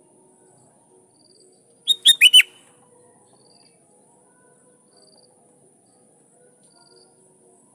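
Sooty-headed bulbul singing one short, loud phrase of four quick whistled notes about two seconds in. A faint steady high insect hum and soft short chirps about once a second run underneath.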